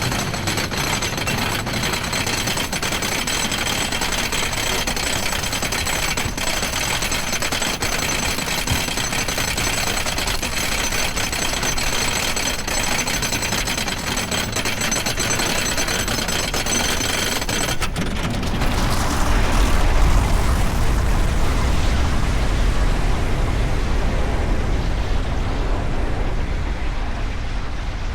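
Wooden roller coaster train climbing the chain lift with a rapid, steady clatter and a thin mechanical whine. About eighteen seconds in the clatter stops as the train drops, and wind rushing over the microphone and the rumble of wheels on the wooden track take over.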